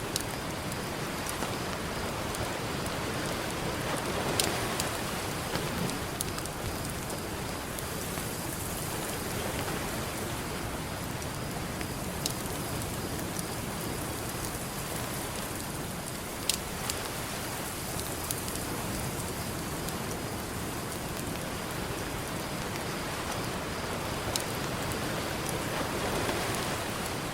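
Campfire crackling with a few sharp pops over a steady wash of ocean surf, which swells gently twice.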